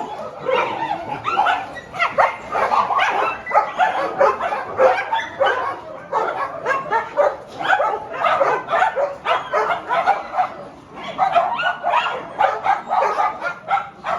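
A pack of dogs barking and yipping together, many short calls overlapping in a continuous chorus.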